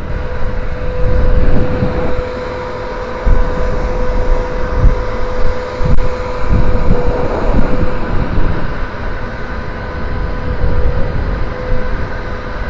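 Steady drone of a ship's machinery with a constant hum, and wind buffeting the microphone in uneven gusts.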